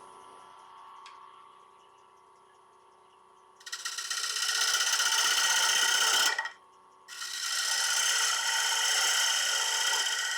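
Wood lathe running with a faint steady hum, then a turning tool cutting the rim of a spinning wooden bowl in two long passes of a few seconds each, with a short pause between, truing up the rim.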